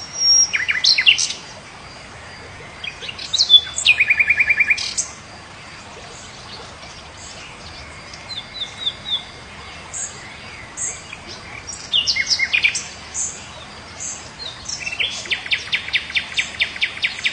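Several songbirds singing: scattered high chirps and slurred whistles, a short fast trill about four seconds in, and a long rapid trill of repeated notes starting near the end, over a faint steady background hiss.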